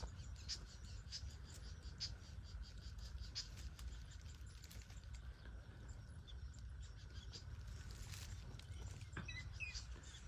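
Outdoor ambience: a steady low rumble with scattered light clicks and a faint steady high insect-like buzz, with a few short chirps about nine seconds in.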